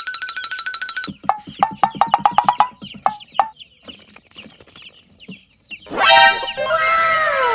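A chicken clucking in a run of short calls, laid among added musical sound effects: a rapid ringing tone in the first second and a loud burst of falling whistling tones near the end.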